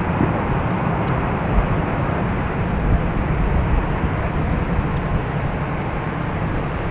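Jet engines of an ANA Boeing 787-8 Dreamliner, Rolls-Royce Trent 1000 turbofans, running with a steady, deep rumble.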